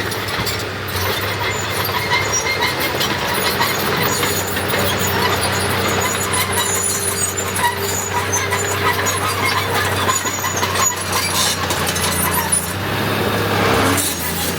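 Heavy diesel earthmoving machinery running steadily, with high metallic squeals and clanks over the engine hum, and a louder surge near the end.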